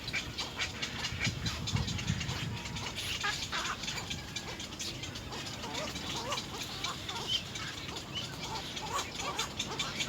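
Birds making short chirping calls amid scattered clicks and rustling, with a low rumble in the first couple of seconds.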